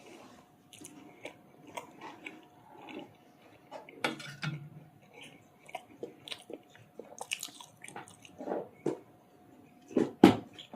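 A person chewing and biting food close to the microphone, with irregular wet smacks and clicks, while eating chicken curry with roti and rice. There is a louder knock near the end and a faint steady hum underneath.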